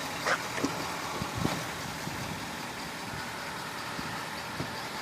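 Pickup truck door being opened and its AMP Research power running boards deploying: a few short clicks and knocks in the first second and a half, with another light click near the end, over a steady background noise.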